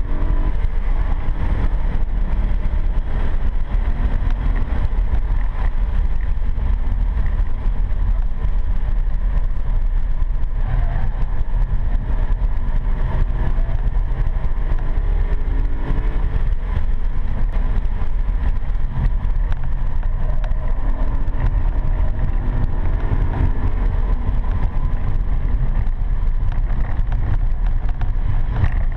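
BMW M3 E92's V8 engine under hard track driving, heard from inside the cabin through a seat-mounted GoPro: a heavy low rumble, with the engine note rising and falling through the gears.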